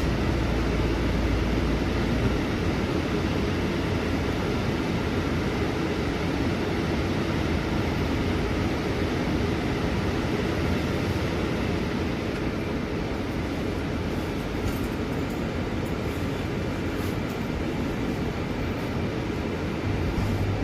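Scania city bus running along, heard from inside the cabin: steady engine and road noise. A deep low rumble drops away about two seconds in.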